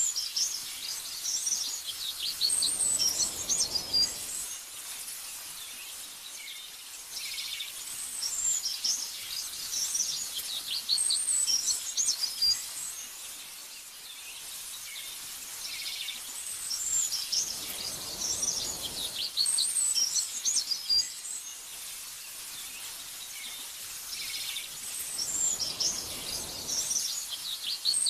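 Small birds chirping and twittering in bursts of high, quick notes that come in clusters every several seconds, with a few soft whooshes of wind-like noise between them.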